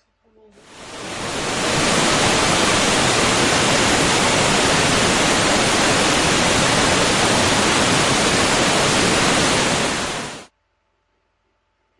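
Recorded waterfall sound effect played by an educational app: a steady, loud rush of falling water. It fades in over the first couple of seconds and cuts off suddenly near the end.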